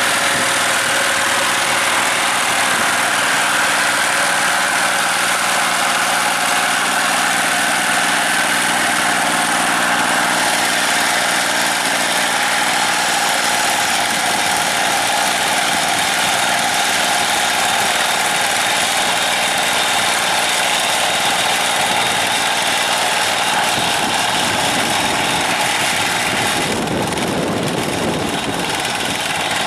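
Diesel tractor engine running steadily, its note shifting about three-quarters of the way through.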